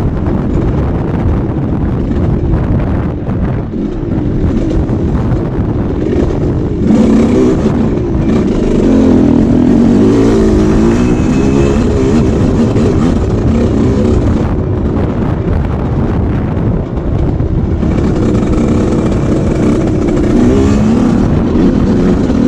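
Suzuki RM 85 two-stroke motocross bike engine being ridden, its revs rising and falling over and over, louder from about seven seconds in.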